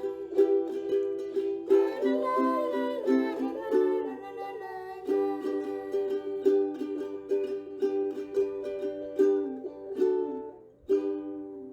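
Music: a plucked string instrument picking a melody of ringing single notes, with a short break near the end.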